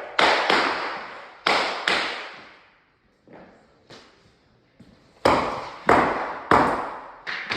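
Sharp blows on timber floorboards being fixed down, about eight in three clusters, each ringing out with a long echo.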